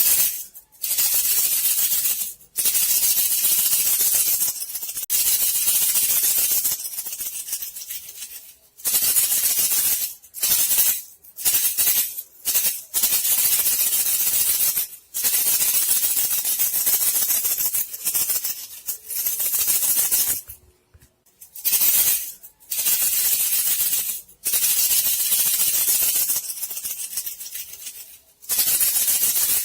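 Rat-lure sound for bandicoot rats: a loud, hissing rattle in repeated bursts, each half a second to a few seconds long, broken by short gaps, with a longer pause a little after twenty seconds.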